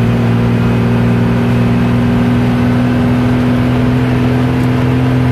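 Engine of a moving vehicle heard from inside the cab, running at a steady, unchanging pitch while cruising, over a hiss of road noise.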